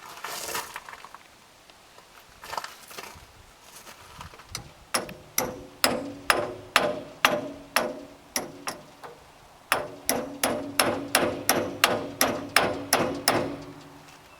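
Hammer blows knocking on a hydraulic crane cylinder's tight aluminum retainer nut to break it loose. After a few light taps come two runs of steady, metallic, ringing strikes, about two to three a second, with a short pause about halfway through.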